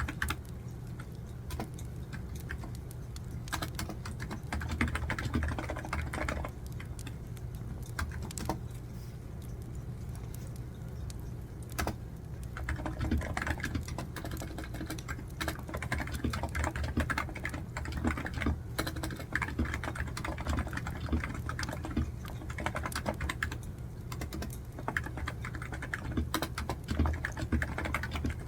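Typing on a computer keyboard: quick runs of key clicks that come in bursts of a few seconds with short lulls between them, over a steady low background.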